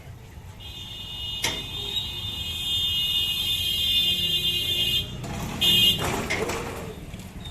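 A shrill electric warning tone sounds steadily for about four and a half seconds, breaks off, then comes back louder for a moment before a brief rushing noise.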